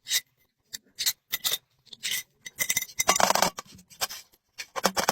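Small pieces of a miniature toy tea set, the teapot among them, being handled and set down, clinking and tapping a few times, with a short scrape about three seconds in.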